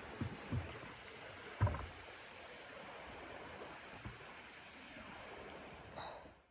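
Steady rushing blizzard wind with a few soft, low thumps, the strongest about a second and a half in. The sound fades out abruptly at the very end.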